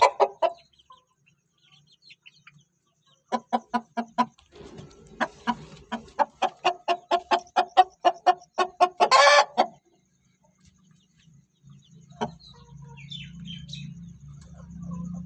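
Aseel chicken clucking in a quick rhythmic series, about four to five clucks a second, building to one loud drawn-out squawk about nine seconds in. A low steady hum rises near the end.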